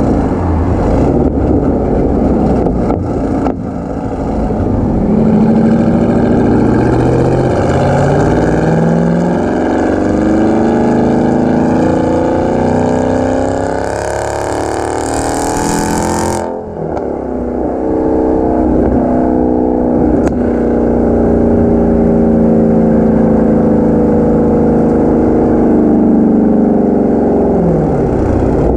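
Dodge Challenger Hellcat's supercharged V8 heard through an AWE Tuning non-resonated touring exhaust, accelerating repeatedly with the pitch climbing. A rushing hiss rises just before a brief break about halfway, then the engine pulls up again and falls away near the end.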